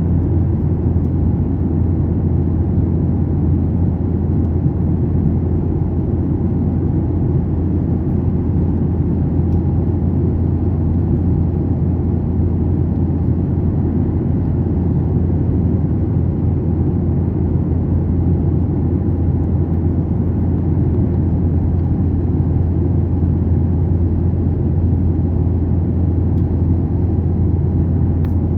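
Steady, low rumble of an airliner cabin: engine and airflow noise without a break.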